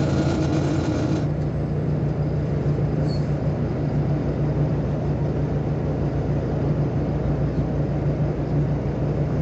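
Diesel engine of a Volkswagen Volksbus 18-280 OT LE city bus running at a steady, even hum, with a brief hiss in the first second.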